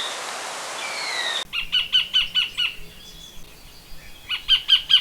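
New Zealand kingfisher (kōtare) calling. A few drawn-out falling notes sound over a steady hiss, then after a cut about a second and a half in come two bursts of rapid, sharp repeated notes, about five a second.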